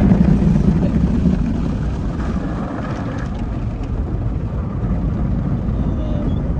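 Automatic tunnel car wash working over the car, heard from inside the cabin: a steady, dense, low rumble of the wash equipment on the body.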